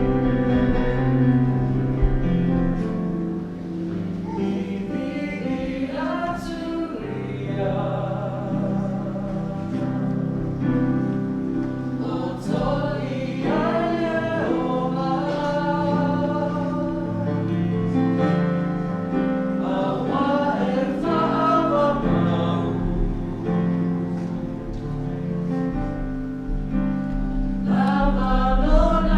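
A small group of voices singing a gospel song together over steady, sustained low accompaniment.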